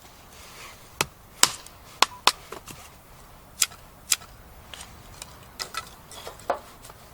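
Batoning firewood with a Nessmuk bushcraft knife: a wooden baton strikes the knife's spine to drive the blade through the wood, making about a dozen sharp wooden knocks at uneven intervals, some in quick pairs.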